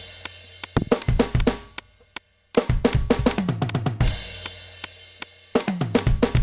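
Electronic drum kit played in quick fills of drum strokes that fall in pitch, each closing on a cymbal left to ring out and fade. The playing breaks off for about half a second just after two seconds in, and a new fill starts near the end.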